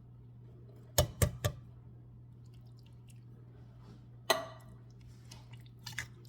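Three quick knocks about a second in, then a single louder metallic clank with a short ring at about four seconds: kitchen utensils knocking against a pan while drained diced tomatoes are added from a can. A low steady hum runs underneath.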